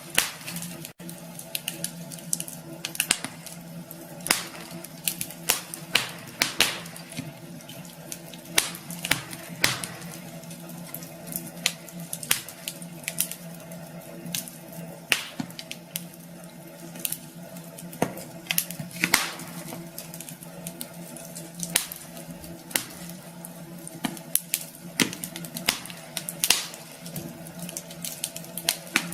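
Wood fire crackling, with frequent irregular sharp pops and snaps over a steady low hum.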